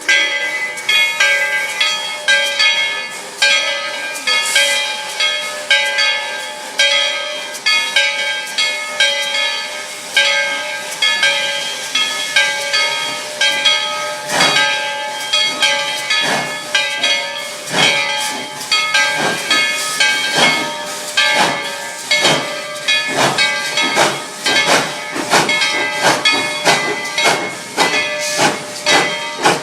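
Steam hissing with several steady whistle-like tones held throughout, broken by frequent puffs, about two a second later on.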